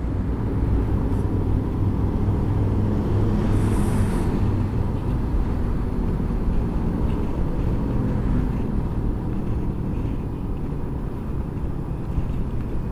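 A motorcycle being ridden along with its engine running steadily, heard through constant road and wind noise. A brief high hiss comes about four seconds in.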